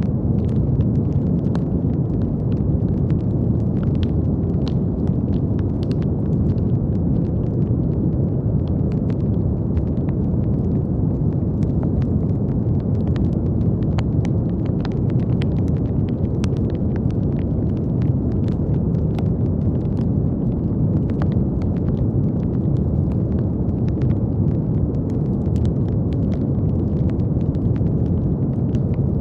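Continuous brown noise: a steady, deep rushing hiss weighted toward the low end, with faint scattered clicks throughout.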